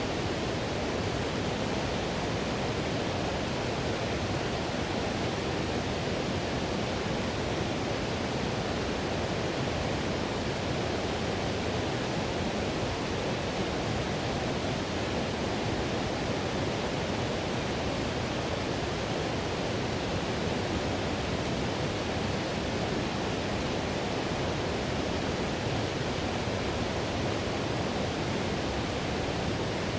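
Whitewater river rushing: a steady, even roar of water over rapids.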